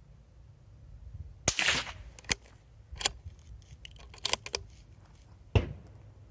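Suppressed Bergara BMR-X .22 WMR rifle firing two shots about four seconds apart, with a short ringing smear after the first. Between the shots the bolt is worked with several metallic clicks.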